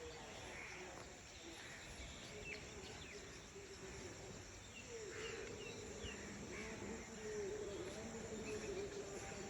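Rural outdoor ambience: scattered short bird chirps over a faint steady background of insects. From about five seconds in, a low wavering tone comes up under them.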